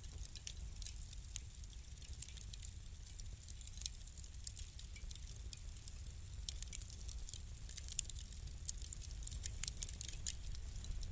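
Wood fire crackling: irregular sharp pops and ticks over the low, steady rumble of the flames, with the pops coming more often in the second half.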